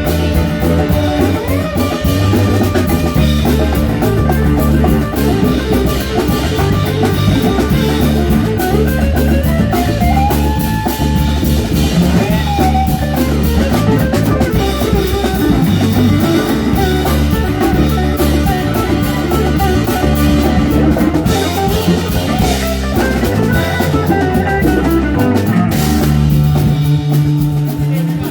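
Live rock band playing an instrumental passage without vocals: drum kit, bass and guitar, with percussion.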